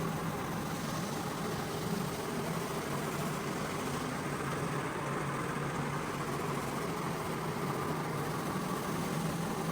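A cleaning machine's motor running steadily with a constant hum and no pauses.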